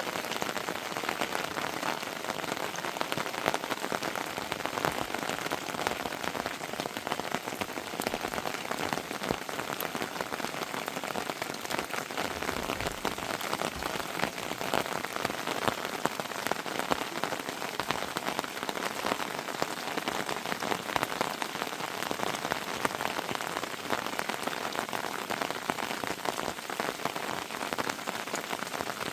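Heavy rain falling steadily, a dense patter of drops over a constant hiss.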